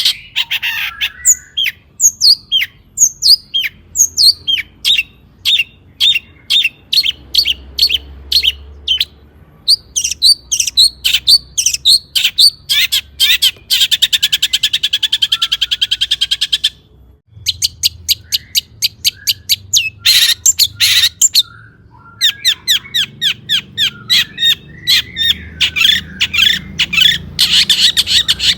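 Long-tailed shrike singing a quick, unbroken run of sharp, high chattering notes, with a rapid buzzy trill about halfway through and another near the end, and a brief pause just after the middle.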